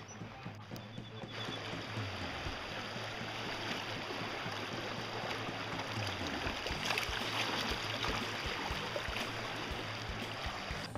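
Creek water rushing and rippling steadily, as heard from a canoe on the creek.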